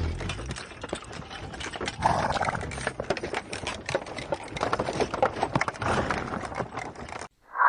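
Horse sounds: a quick run of hoof clops, with louder stretches about two seconds in and again around five to six seconds. The sound cuts off suddenly just before the end.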